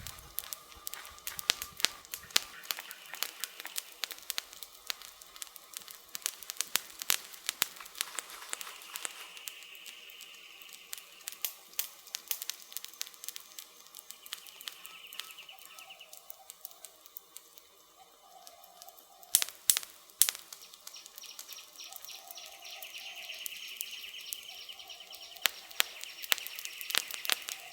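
Wood fire crackling with rapid irregular snaps and pops, and a few louder pops a little past two-thirds of the way through.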